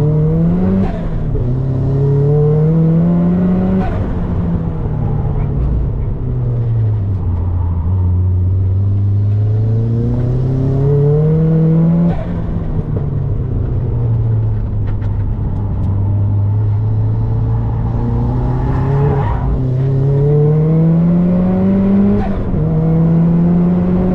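Turbocharged Mazda MX-5's four-cylinder engine driven hard, heard from inside the car. Its pitch climbs with the revs and drops at each gear change or lift, about four times, with a steadier stretch in the middle.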